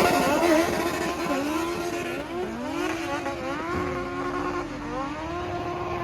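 Car engine revving hard, its pitch rising and dipping again and again before settling into a steadier tone near the end.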